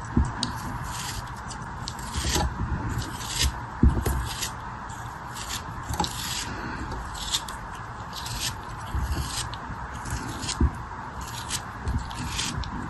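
Irregular crisp scraping and crumbling strokes, about one or two a second, as a crumbly material is cut, scraped or crushed by hand, over a steady hiss.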